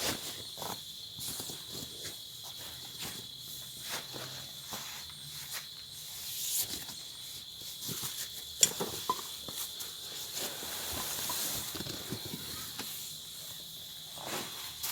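A steady high-pitched insect chorus, crickets or similar, with scattered rustling and light knocks of someone moving about close by; one sharp click a little over halfway through.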